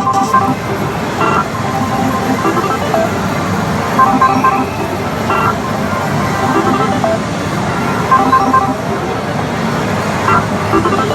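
Pachinko-parlour din: a loud, dense wash of machine noise with short electronic beeps and jingles from slot machines recurring every few seconds.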